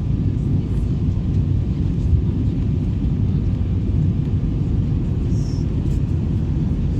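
Steady low rumble of an Airbus A321 airliner, even throughout with no rise or fall.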